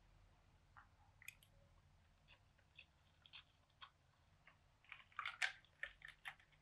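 Faint eating sounds: chewing on a spoonful of chicken biryani, with a spoon moving in a ceramic bowl, heard as scattered soft clicks that grow busiest about five seconds in.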